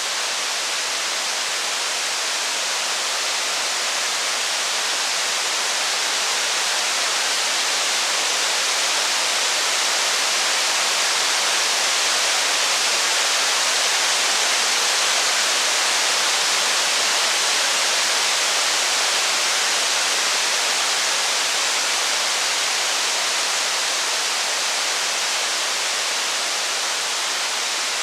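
Steady rain making an even hiss, swelling a little toward the middle and easing again.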